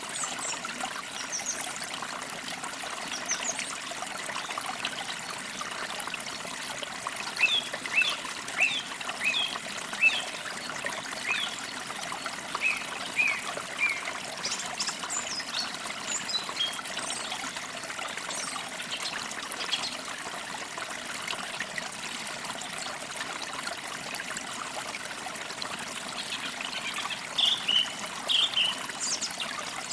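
Water trickling steadily, as from a small stream, with songbirds chirping over it: a run of short chirps about a third of the way in and another cluster near the end.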